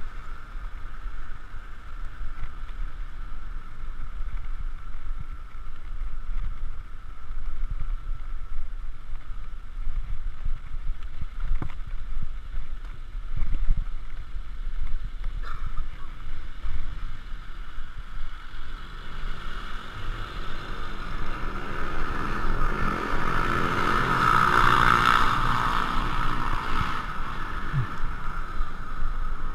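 Wind and road rumble on a GoPro riding along on a moving bicycle, steady throughout. From about two-thirds of the way in, a louder sound swells over several seconds and fades again before the end.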